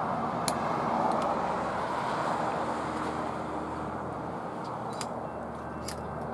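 Train rolling past: a steady rush of wheel and track noise that swells over the first two seconds and then slowly fades, with a few sharp clicks.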